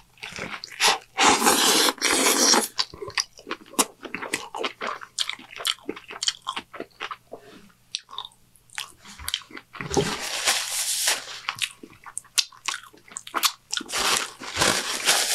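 Close-miked biting into a triple Whopper burger: a loud crunching bite about a second in, then wet chewing with many small smacks and clicks. A paper napkin rustles near the end.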